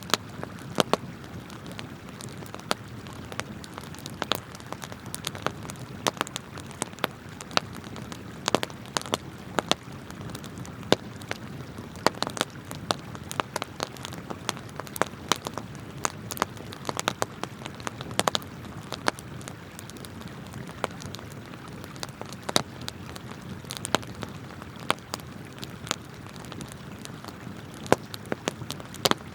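Wood campfire crackling and popping in sharp, irregular snaps, over the steady rush of a flowing river.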